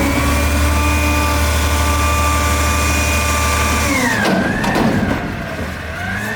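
Garbage truck's diesel engine held at raised revs at a steady pitch, then dropping about two-thirds of the way in and revving up and down twice.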